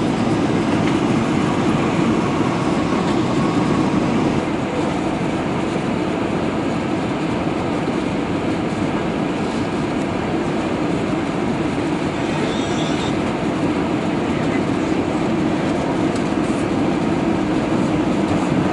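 Steady rumble of engine and airflow noise inside the cabin of an Airbus A320, dipping slightly in level about four seconds in.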